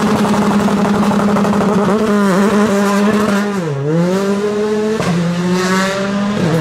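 Rally car engine held at steady high revs on a stage start line, the pitch dipping briefly about halfway through and then held high again.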